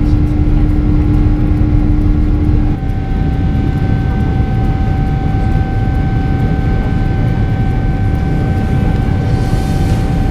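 Boeing 777-300ER's GE90 jet engines running, heard from inside the passenger cabin as a loud, steady rumble with engine whine over it. The pitch of the whine changes about a third of the way in.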